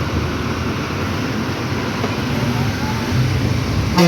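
Loaded lorry on the move: steady engine and road noise. A horn starts sounding at the very end.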